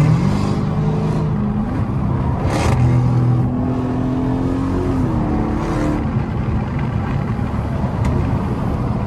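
Dodge Hellcat's supercharged V8 running at highway speed, heard from inside the cabin over steady road noise. Its pitch steps up over the first few seconds and drops back about two-thirds of the way through.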